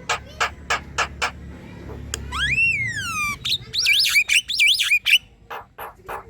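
Javan myna singing a loud chattering song. Quick sharp notes at about three a second come first, then a long falling whistle, then rapid wavering warbles, then more sharp notes near the end.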